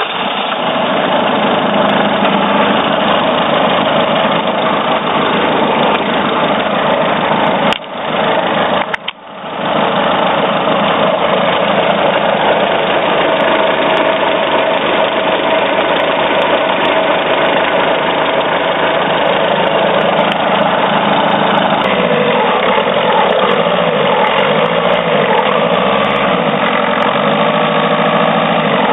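Citroen C4 engine running close to the microphone, making the strange noise that prompted its owner to film it; the fault itself is not identified. The sound dips briefly twice, about 8 and 9 seconds in, and a slow low wavering sets in about three-quarters of the way through.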